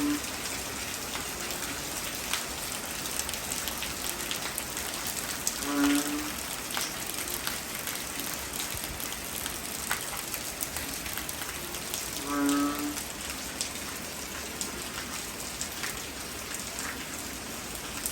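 Heavy rain falling steadily, with scattered sharp drips. A short low pitched call repeats about every six seconds, twice in this stretch.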